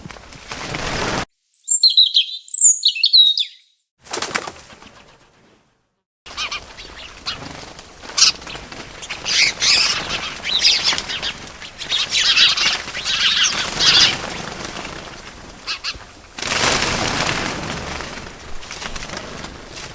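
Birds chirping in short, high calls, mixed with bursts of wings flapping. The sound cuts off abruptly twice for a couple of seconds.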